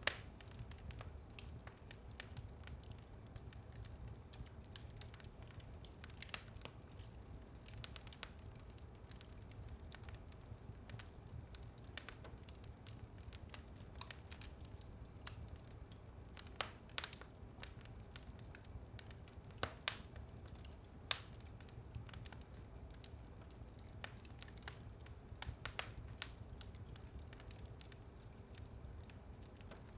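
Wood fire crackling in a fireplace: scattered sharp pops and crackles, a few louder than the rest, over a low steady rumble.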